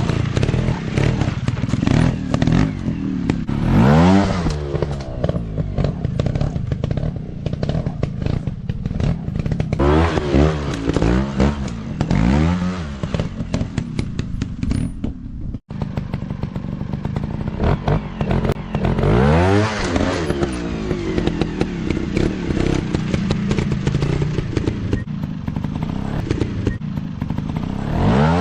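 Dirt bike engine revving in sharp bursts, about six times, dropping back to lower running between revs. The sound cuts out for an instant about halfway through.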